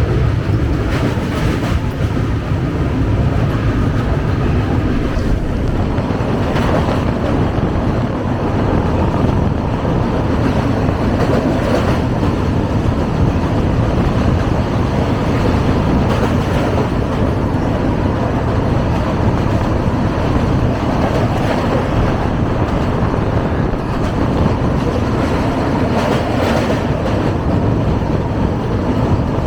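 Clatter of an express train's coach wheels running over the rails as it crosses a river railway bridge, heard from aboard the train: a steady, loud rumble with a few sharper clacks of wheels over rail joints.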